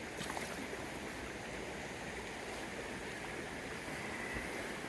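Small wild stream flowing: a steady, even rush of water.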